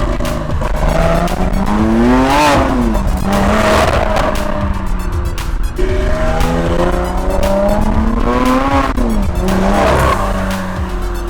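Lamborghini Aventador SVJ's naturally aspirated V12, fitted with cat-delete pipes, being revved twice: each time the pitch climbs over a couple of seconds, then falls back.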